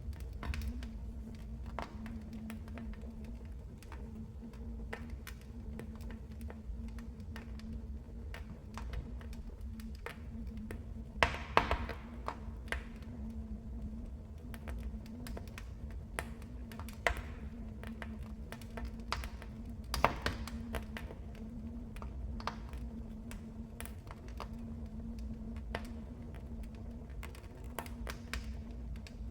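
Wood fire crackling in a fireplace: irregular sharp crackles and pops over a steady low rumble of burning, with a few louder pops about a third of the way in and again past the middle.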